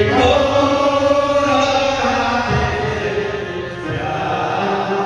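Kirtan: a group chanting a devotional song with musical accompaniment, on long held notes.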